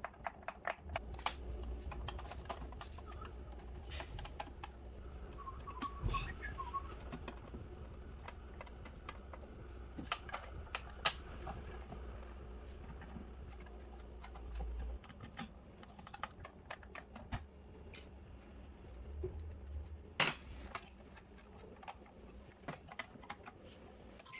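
Irregular small clicks and taps of tools and small plastic and metal parts being handled while a DJ controller is taken apart, with a low steady hum from about a second in to about fifteen seconds.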